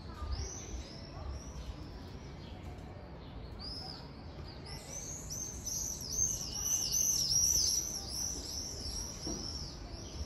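Small birds chirping: short high chirps, scattered at first, then a quick run of about three a second from about four seconds in, loudest a couple of seconds later.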